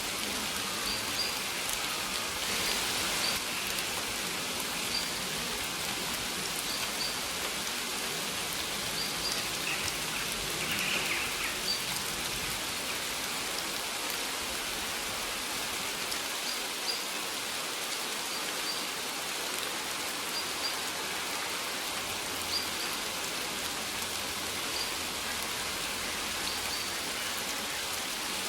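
Steady rain falling and pattering on surfaces, with faint short high bird chirps repeating every second or two.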